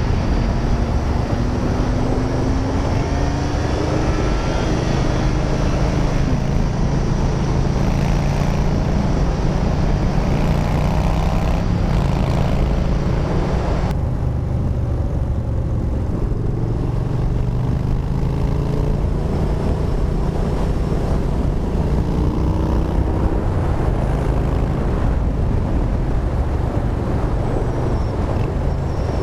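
Yamaha Bolt's 942 cc air-cooled V-twin running through a Bassani Radial Sweepers exhaust while riding, its pitch rising and falling as the rider works the throttle through the corners. A steady hiss over the engine drops away suddenly about halfway through.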